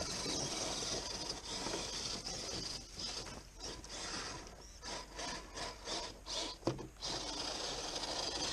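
Redcat Scout Gen8 RC crawler driving over rough ground: its motor and gears whir while the tyres scrape and grind. It runs steadily at first, then comes in short stop-start bursts in the second half.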